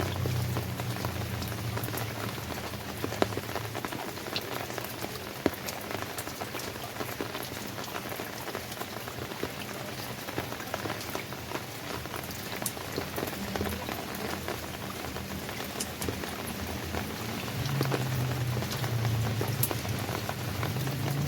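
Steady rain falling on a surface, with individual raindrops ticking sharply through it and two louder drop hits about three and five seconds in. A low hum sits under the rain at the start and comes back near the end.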